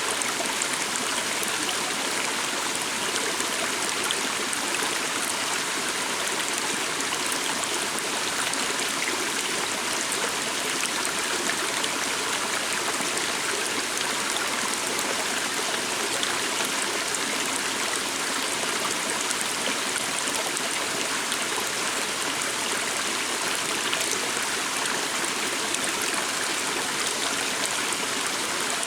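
A small stream flowing steadily, a continuous even rush of running water with faint trickling.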